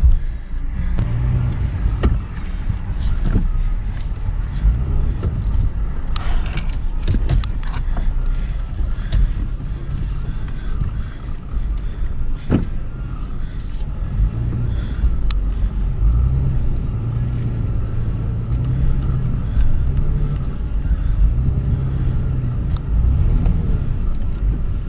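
2013 Toyota 4Runner's 4.0-litre V6 running at low speed, a steady low engine sound with shifting pitch, with scattered clicks and knocks.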